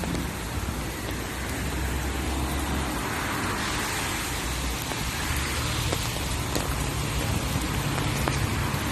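Steady rain, with cars passing on a wet road and rumbling by.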